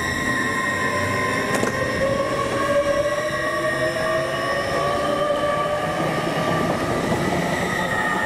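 A train running past with a whine of several steady tones, one of them slowly rising in pitch between about two and five seconds in, over a rumble. A single sharp click comes about one and a half seconds in.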